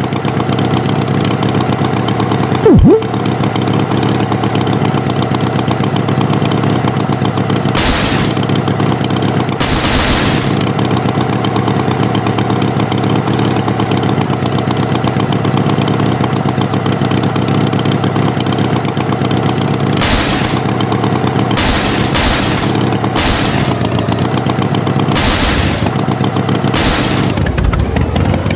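Tractor engine running steadily, with about eight short hissing bursts later on, several of them close together. About three seconds in there is one brief loud squeak.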